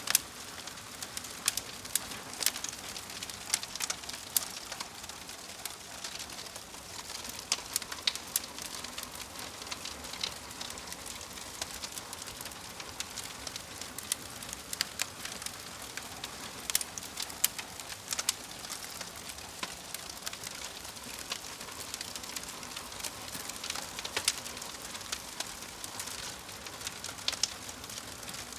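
Wood fire burning in a fireplace: steady hiss of the flames with irregular sharp crackles and pops from the burning logs.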